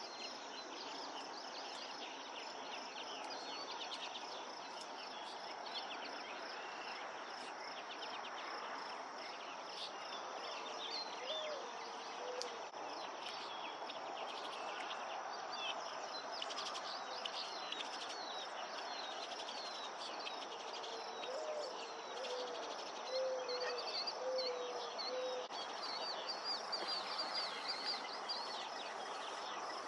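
Steady summer insect chorus of crickets and similar insects, with scattered quick bird chirps that grow busier in the second half and two short runs of low calls partway through.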